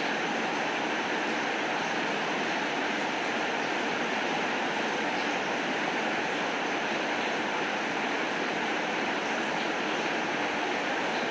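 Steady rainfall, an even hiss of rain with a few faint scattered ticks of drops.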